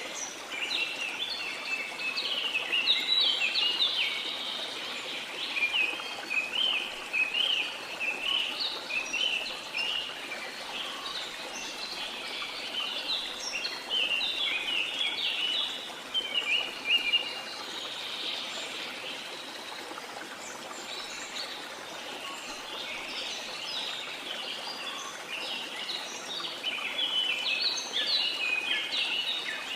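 Rainforest bird chorus: many rapid chirps and short trills over a steady hiss of rain. The chirping thins out for a few seconds past the middle and picks up again near the end.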